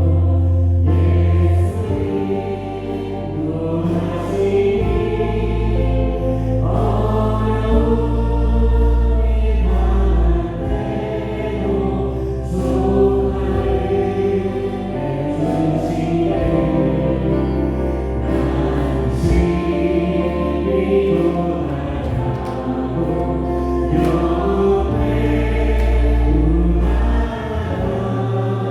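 Live church praise band playing a Korean worship song: several voices singing together over long held bass-guitar notes that change every few seconds, with keyboard and light drums and cymbals.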